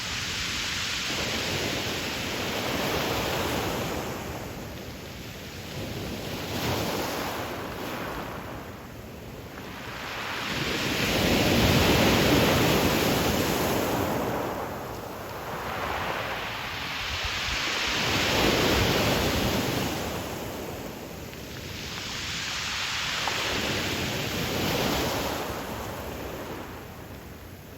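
Ocean waves breaking and washing up a pebble beach, the surf swelling and fading in slow surges about every five or six seconds.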